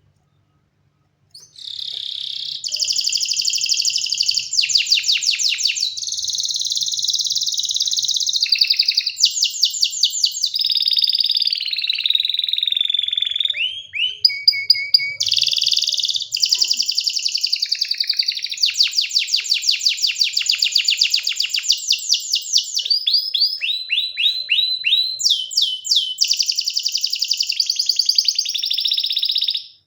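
Domestic canary singing one long, unbroken song: a string of fast trills, each a rapid run of repeated high notes, changing from phrase to phrase, with a short lower-pitched roll about halfway through. It begins about a second and a half in and stops abruptly near the end.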